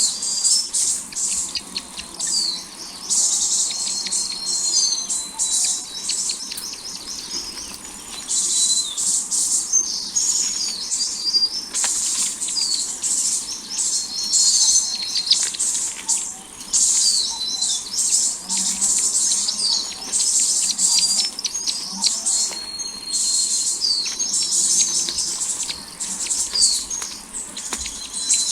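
Small birds chirping continuously, a dense run of short, high-pitched calls repeated many times a second.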